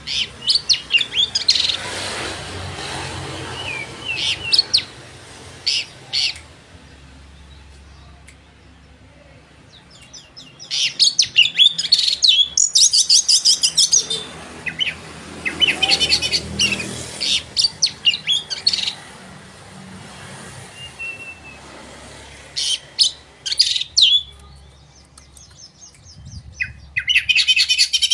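Oriental magpie-robin (kacer) singing in full song: rapid, high chirps and trills in loud bursts separated by short pauses.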